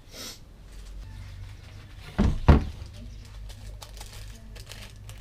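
Two dull knocks about a third of a second apart, a little over two seconds in, over a low steady hum, with a brief hiss just at the start.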